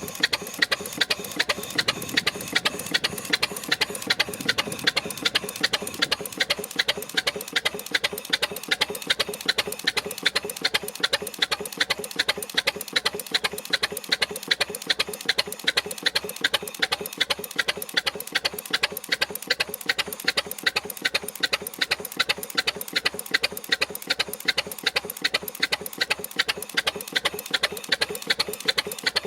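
Frisco Standard 6 hp twin-cylinder stationary engine running steadily, each firing stroke a sharp, evenly spaced beat, a few per second.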